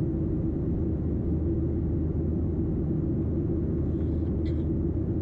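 Steady drone inside a Boeing 737's passenger cabin in flight: jet engine and airflow noise with a constant low hum.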